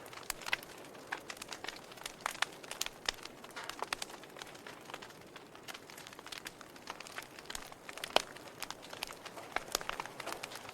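Logs burning in a fireplace: irregular crackles and sharp pops over a soft steady hiss, with one louder pop about eight seconds in.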